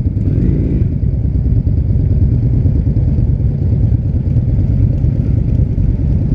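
Motorcycle running steadily, a loud, unbroken low rumble.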